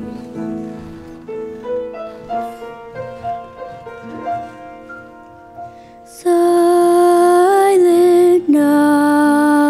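Soft piano playing. About six seconds in, a single voice comes in much louder, holding long notes.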